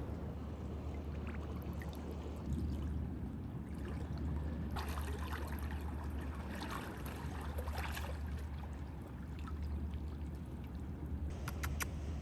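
Seawater trickling and washing among rocks, over a steady low rumble, with a few light clicks near the end.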